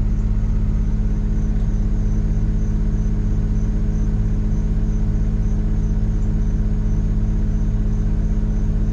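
Diesel engine idling steadily: an even, low, pulsing hum with no change in speed.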